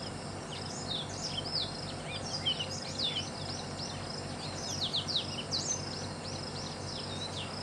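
A chorus of small birds chirping: many short, high notes sweeping downward, several a second, over a steady low background hum.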